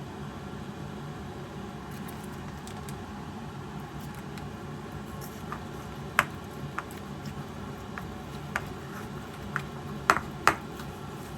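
Kitchen work sounds: scattered light clinks and taps of utensils and dishes over a steady low hum, with a few sharper knocks about six and ten seconds in.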